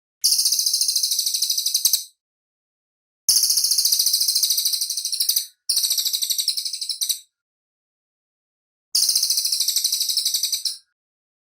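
A cililin singing in four high, very rapid trills of about two seconds each, separated by short silences. The notes are tightly packed and evenly repeated.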